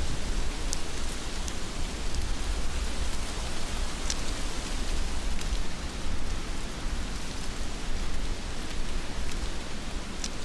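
Heavy rain falling steadily, a dense even hiss, with a few sharp ticks of drops striking close by.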